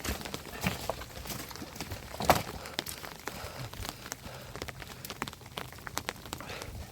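Rain falling, with many small drops ticking irregularly on nearby surfaces and one louder sharp tap a little over two seconds in.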